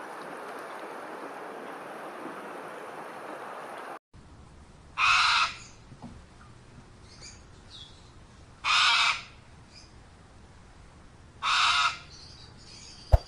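A steady rushing hiss, then after an abrupt cut a crow cawing three times, one harsh call about every three seconds. Two sharp clicks sound at the very end.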